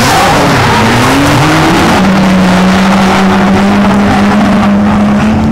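Drift car engines revving hard during a tandem drift run. The pitch climbs over the first two seconds, holds steady at high revs for about three seconds, then climbs again near the end.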